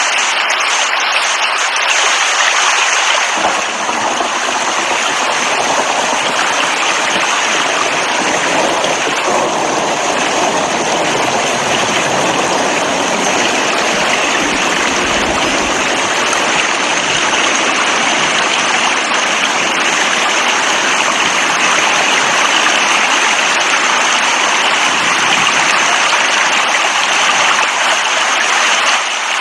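Steady rushing water, a dense even hiss of heavy rain or flowing water, which deepens about three and a half seconds in.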